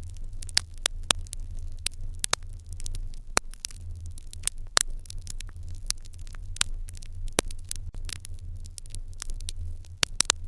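Wood fire in an irori hearth crackling, with frequent sharp, irregular pops over a steady low rumble.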